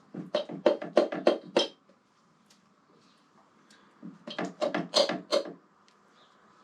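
Two quick runs of sharp knocks or taps, about five or six in each, the second starting about four seconds in.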